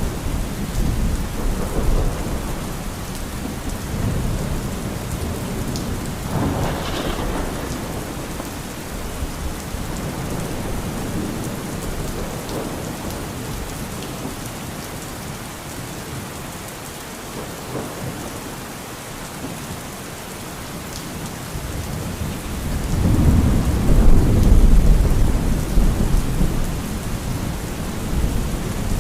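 Steady rain falling through a thunderstorm, with low rolling thunder. A sharper crack of thunder comes about a quarter of the way in, and a long, heavy rumble of thunder builds about three-quarters through, the loudest part.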